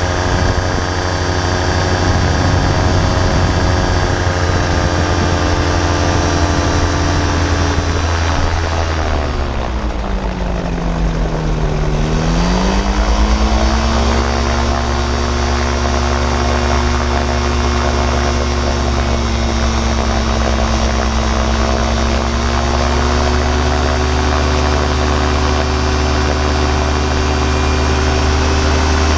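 Vancraft gyrocopter's engine and propeller running steadily. About eight seconds in the pitch drops sharply, bottoming out about four seconds later, then climbs back and holds steady, a little lower than before.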